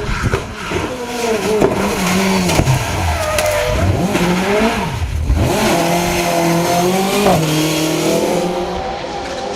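Rally car engine under hard throttle. Its pitch falls and rises several times between about three and five and a half seconds in, then holds high and steady.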